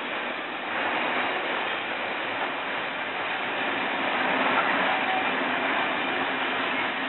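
Loaded sugar-beet freight wagons rolling steadily past, wheels running on the rails in a continuous rumbling clatter, with faint high squealing tones from the wheels on the curve.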